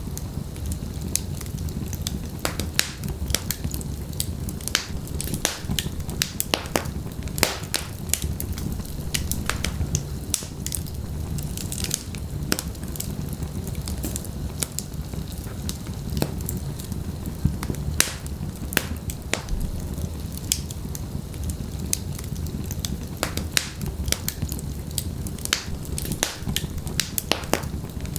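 Wood fire burning in a fireplace: logs crackling and popping with frequent sharp snaps over a steady low rumble of flame.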